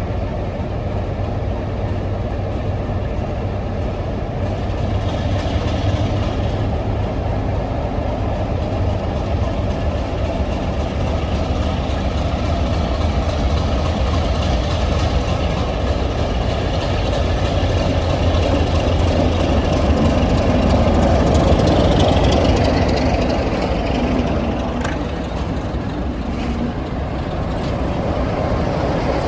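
Heritage diesel locomotive engine running with a steady low hum, growing louder about two-thirds of the way through and then easing off.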